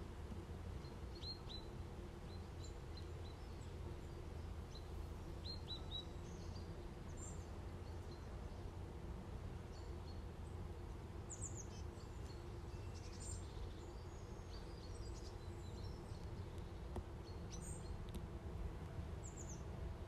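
Faint meadow ambience: a steady low background rumble with scattered brief, high bird chirps, a few at a time, throughout.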